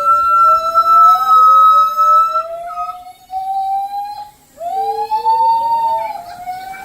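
Gibbons calling, two voices at once: long, slow hoots that rise steadily in pitch, about four in a row, over a higher held note in the first half. The calls are loud and siren-like.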